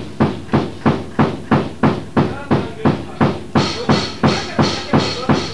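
Heavy percussive hits repeated at an even pace of about three a second, part of a noise/grind recording. From about three and a half seconds in, each hit gains a brighter, hissier edge.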